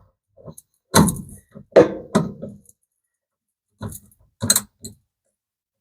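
Metal tool handling: a 10 mm socket and ratchet wrench knocking and clicking as it is fitted onto a screw, a handful of separate knocks with short pauses between them.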